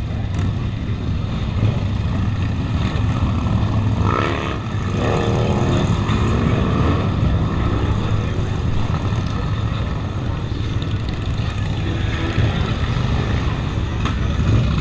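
Suzuki SV650's V-twin engine running under way, heard from a helmet-mounted microphone with steady wind and road noise.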